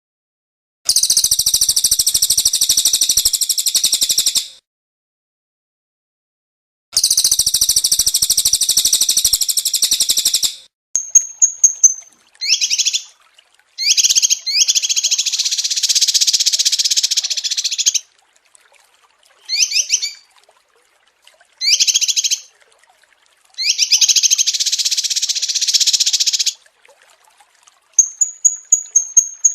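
Small songbirds singing: two long, dense, high-pitched rattling trills of about three and a half seconds each, then a thin high whistle, short sharp down-slurred chirps and further buzzy trills, separated by brief silences.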